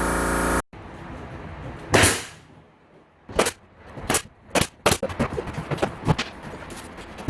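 A burst of music cuts off abruptly, followed by sharp impact sounds from carpentry work: one loud crack, then several sharp knocks about half a second apart and a run of smaller irregular clicks.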